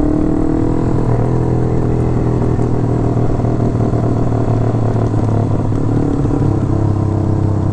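Motorcycle engine running under way, heard from the rider's own bike, its pitch rising over the first second and then holding steady.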